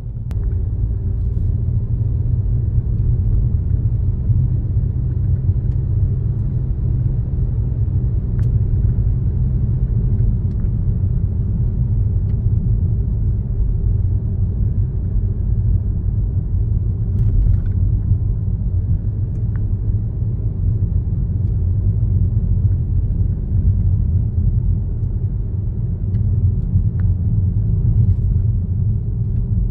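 Car driving at a steady pace: a continuous low rumble of road and engine noise, with a few faint clicks.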